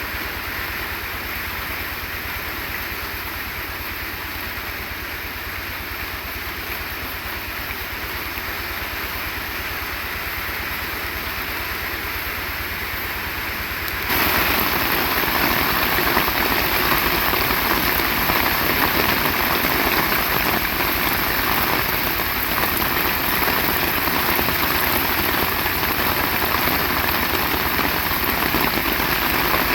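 Heavy rain falling steadily, a dense even hiss of drops on surfaces, which jumps suddenly louder about halfway through.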